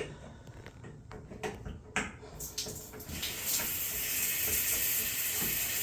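A few light clicks of the temporary handle on a Mixet shower valve, then water comes on about three seconds in and runs with a steady hiss as the valve is opened on its new cartridge.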